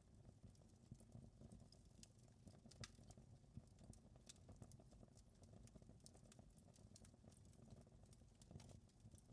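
Faint crackling of a wood fire: scattered sharp pops and snaps over a low steady rumble.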